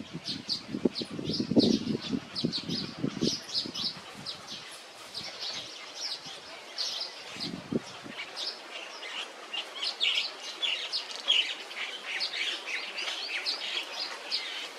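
Small birds chirping in rapid, high short notes throughout. Low rustling and bumping sounds come with the chirps in the first few seconds and once more about halfway through.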